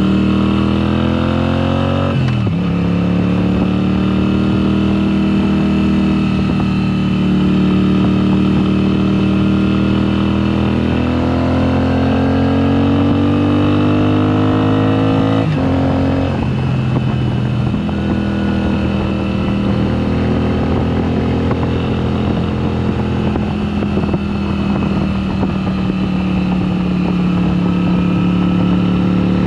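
2022 Moto Guzzi V7 Special's 853 cc transverse V-twin running through a Mistral exhaust with the dB killers removed, pulling through the gears. The pitch rises, drops sharply at an upshift about two seconds in, climbs slowly again and drops at a second shift about halfway through, then holds steady at a cruise.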